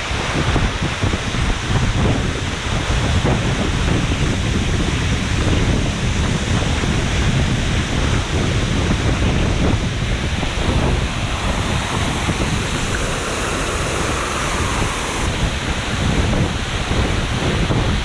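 Waterfall pouring down hard close by, a steady loud rush of water, with wind buffeting the microphone.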